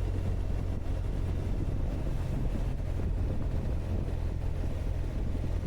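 Motorcycle riding at a steady speed: the engine drones low and constant under a steady rush of wind on the microphone.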